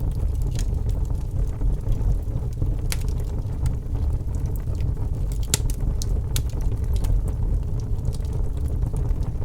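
Wood burning in a fireplace: a steady low rumble with sharp crackles and pops at irregular intervals, the loudest pop a little past halfway.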